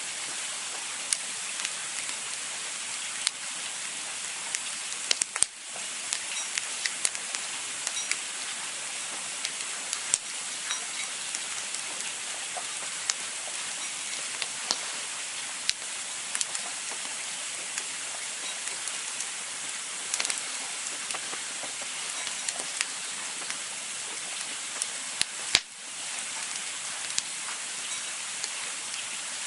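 Campfire burning with a steady hiss and frequent sharp crackles and pops, with two louder pops, one about five seconds in and one near the end.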